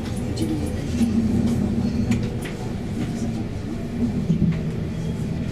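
Electric commuter train running, heard from inside the passenger car: a steady low rumble and hum with scattered faint ticks.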